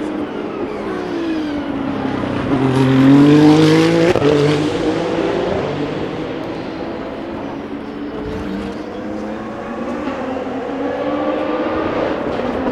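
Endurance race cars on track, engines revving at high speed as they pass. The loudest pass comes about three to four seconds in, its pitch climbing and then breaking at a gearshift. Engine pitch climbs again near the end as another car accelerates.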